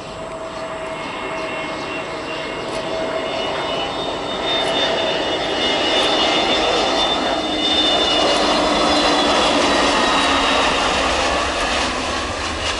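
Airliner's engines passing close by: a rushing noise with a steady whine over it, growing louder to a peak about two-thirds of the way through and then starting to fade.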